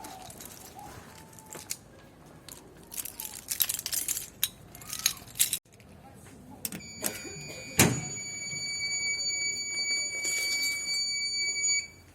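Irregular clattering and rustling, then a sharp clunk and a steady high-pitched electronic tone that holds for about five seconds and cuts off suddenly near the end.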